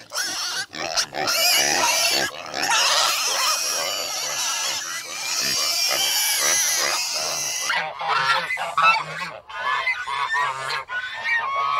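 A flock of geese honking and calling over one another in a dense, noisy din. From about eight seconds in, the calls come more separately as distinct repeated honks.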